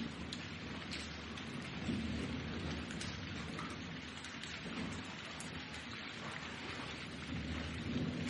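Thunderstorm: steady rain with individual drops ticking sharply, over a low rumble of thunder that swells several times.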